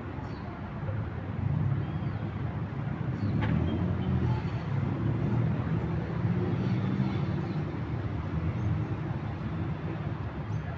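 City traffic ambience: a steady low rumble of road traffic that gets louder about a second and a half in as vehicles pass.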